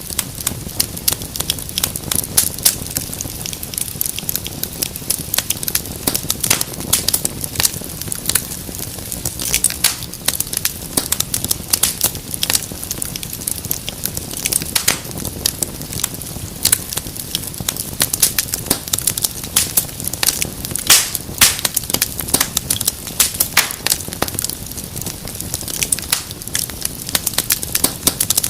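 Wood fire crackling: a dense, irregular stream of sharp pops and snaps over a soft steady hiss.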